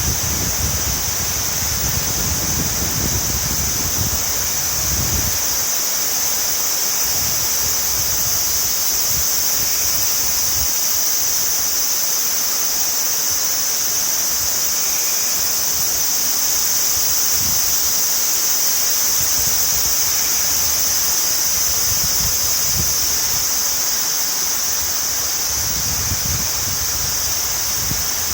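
A river in flood after heavy rain, its fast, swollen water making a steady, loud rush. Wind gusts on the microphone during the first few seconds and again near the end.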